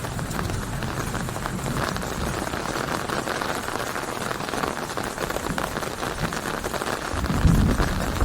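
Steady rain, a dense crackle of drops hitting a surface. A deep rumble of thunder swells up near the end.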